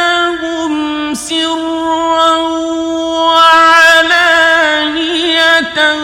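Male Qur'an reciter chanting in the melodic mujawwad style, holding long sustained notes with wavering ornamental turns and no clear words. The pitch breaks briefly about a second in and again near the end.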